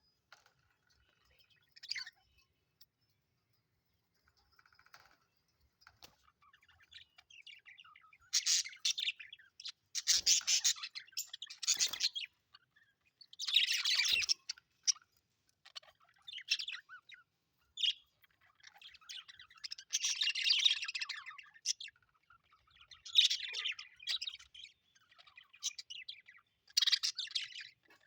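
Pet budgerigars chirping in short bouts. A single chirp comes about two seconds in, then from about eight seconds on a fresh burst comes every second or two.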